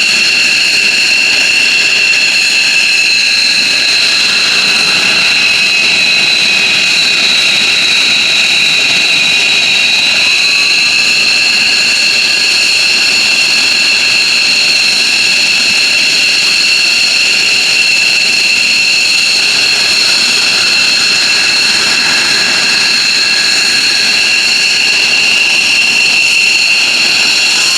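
F-15J Eagle's Pratt & Whitney F100 turbofan jet engines running steadily: a loud, high-pitched whine with two steady tones over a rushing roar.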